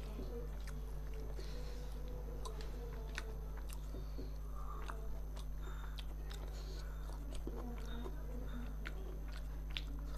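Close-miked eating by hand of rice and fish: chewing, with short wet clicks and smacks of the mouth scattered through, over a steady low electrical hum.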